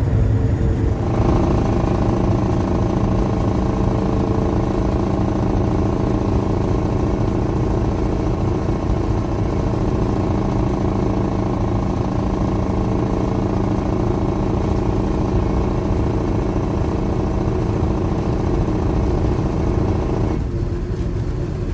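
A truck engine and road noise while driving at a steady cruise: a constant drone with steady tones over a low rumble, its character shifting abruptly about a second in and again near the end.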